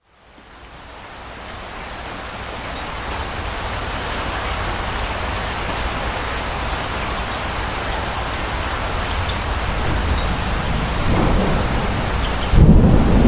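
Steady rain fades in from silence and builds over the first few seconds. Near the end, a sudden low rumble of thunder breaks in.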